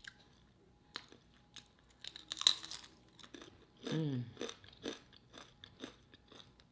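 Close-up chewing of a crisp homemade tortilla chip: small wet mouth clicks throughout, with one loud crisp crunch about two and a half seconds in. A short hummed 'mm' about four seconds in.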